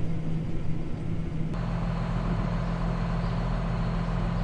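Diesel engine of farm machinery running steadily. About a second and a half in, the sound cuts abruptly to another engine running steadily with a deeper hum.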